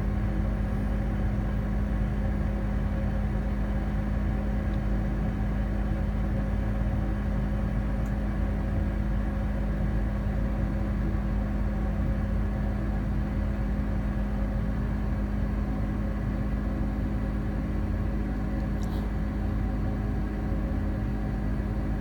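Amana 95 IIQ two-stage gas furnace running in first stage, its inducer motor and lit burners making a steady hum over a low rumble, with the blower not yet running.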